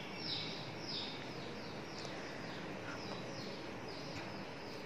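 A small bird chirping over and over, about two short, high, falling chirps a second, faint under a steady hiss.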